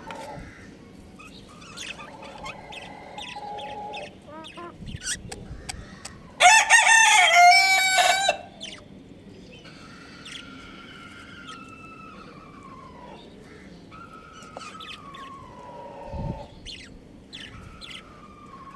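Budgies chirping and chattering in short high notes. About six seconds in, one much louder call lasting about two seconds stands out, and later come a few slow falling notes.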